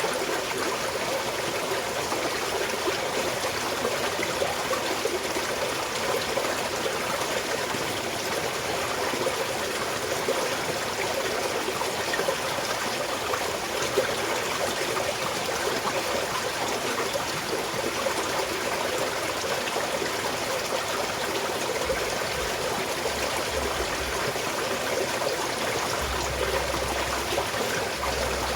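Small mountain stream flowing and trickling steadily over stones.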